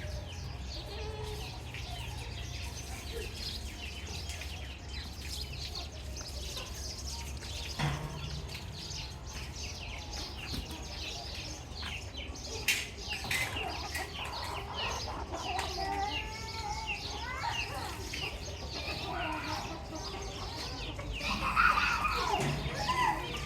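Chicks peeping in rapid, high chirps, with lower clucking calls joining about halfway through and growing louder near the end.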